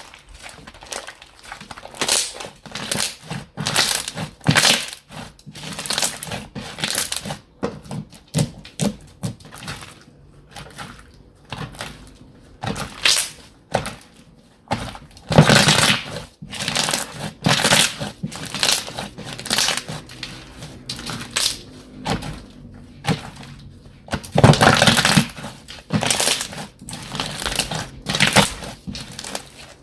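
Slime being squeezed, pressed and stretched by hand, making a string of short, irregular squishing and crackling noises about once or twice a second. The loudest come about halfway through and again a few seconds before the end.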